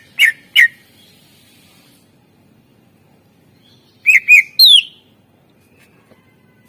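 Greater green leafbird (cucak ijo) singing. Two short whistled notes sliding down in pitch come just after the start, then after a pause of about three seconds a quick phrase of three clear notes, the last one gliding down.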